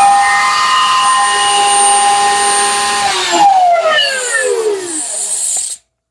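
An electric wood router running at full speed with a high, steady whine. About three seconds in it is switched off and its pitch falls away as the motor spins down. The sound cuts off abruptly near the end.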